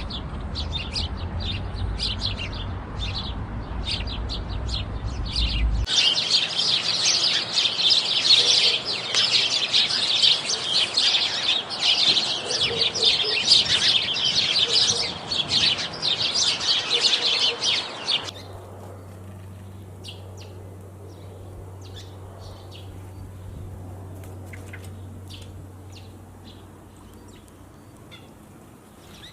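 House sparrows chirping in quick, repeated chirps over a low rumble. About six seconds in the chirping turns dense and loud, with many birds at once, and after about eighteen seconds it drops abruptly to sparse, fainter chirps.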